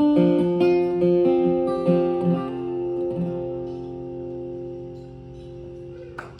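Acoustic guitar playing the closing notes of a folk song, then a final chord left ringing and slowly fading. A sudden noise breaks in right at the end.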